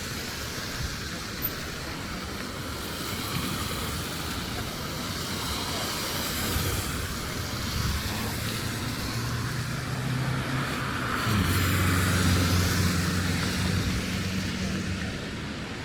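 Road traffic going past, a steady rush of tyre and engine noise. From about halfway a vehicle's low engine hum joins in, drops in pitch partway through, and stops shortly before the end.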